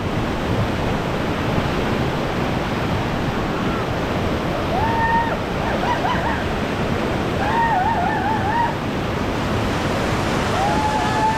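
Steady rush of whitewater as a raft runs a river rapid, with people on the raft shouting and whooping in high, wavering voices a few times from about five seconds in.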